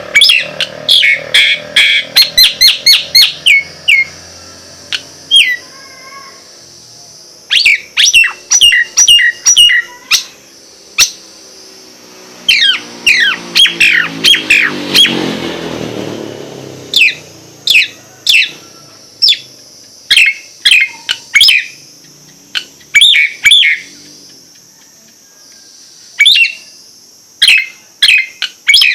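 Nias hill myna calling in bouts of loud, sharp whistles, several a second, with short pauses between bouts. About halfway through, a low rumble swells and fades beneath the calls.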